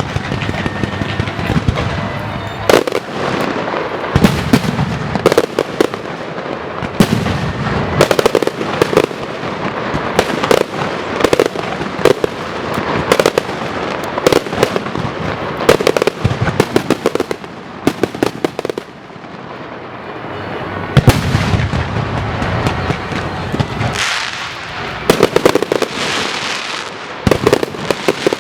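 Strings of firecrackers going off in dense, irregular volleys of sharp bangs and crackles, set off as a ritual salute.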